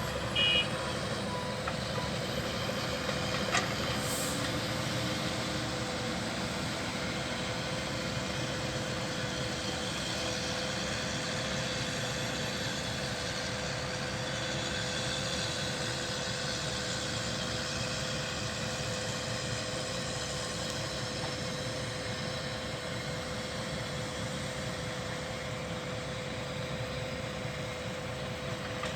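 Volvo A25E articulated dump truck running steadily with a constant engine hum. There is a short loud beep about half a second in, faint evenly spaced beeps over the first two seconds, and a sharp click a few seconds in.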